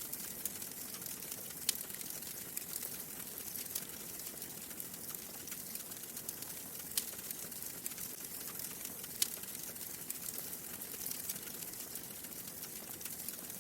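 Wood fire crackling in a fireplace: a steady hiss with many small crackles and a few sharper pops, the loudest about 2, 7 and 9 seconds in.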